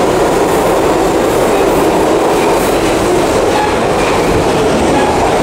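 New York City subway shuttle train running, heard from inside the car: a loud, steady rumble of wheels on rails.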